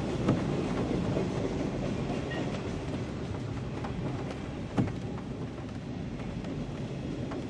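A CSX manifest freight train's cars rolling past with a steady rumble, and the wheels clacking sharply over rail joints now and then, heard from inside a parked car.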